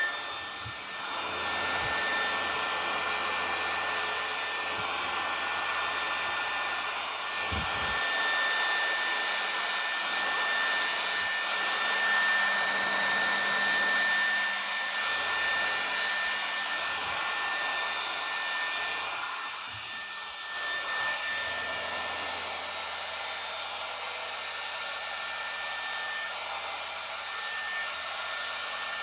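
Remington HC6550 cordless vacuum hair clippers running as they cut hair: the cutting motor and built-in suction fan make a steady whir with a constant high whine, like a small vacuum cleaner. The sound dips briefly about two-thirds of the way through.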